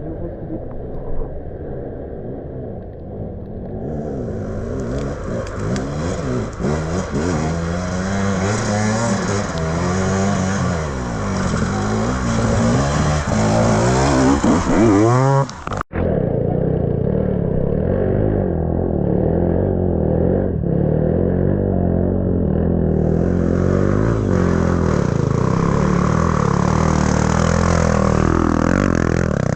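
Off-road trail motorcycle engine revving up and down under load, its pitch rising and falling again and again. The sound breaks off abruptly about 16 seconds in, then carries on.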